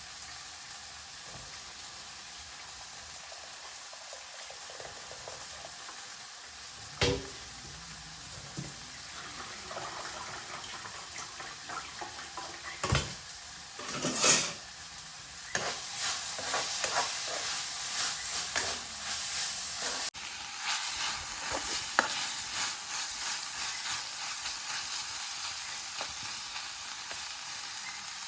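Food frying and sizzling in a pan, stirred, with a few sharp knocks of a utensil; about halfway through the sizzle grows louder and more crackly.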